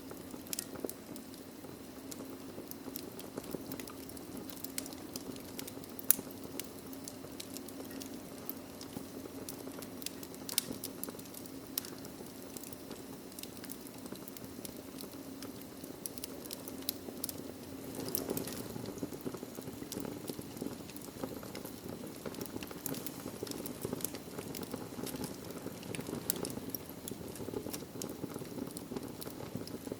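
Wood fire crackling, with frequent irregular sharp pops and snaps over a steady low rush of the flames; the loudest pop comes about six seconds in.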